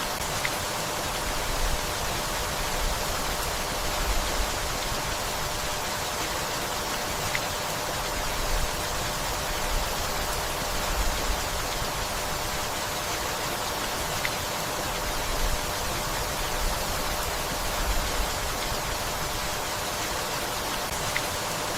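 Steady rainfall, an even hiss with no breaks, and a low rumble swelling now and then.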